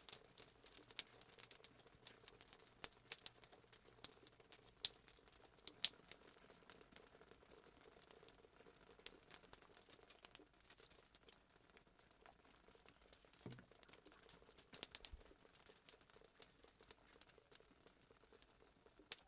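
Fireplace crackling sound effect: a wood fire popping and snapping in quick, irregular clicks over a faint low hiss.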